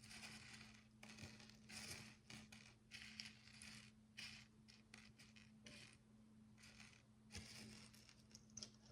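Faint handling of tiny plastic micro bricks: a run of short, irregular scrapes and light clicks as the pieces are picked over and fitted, over a steady low electrical hum.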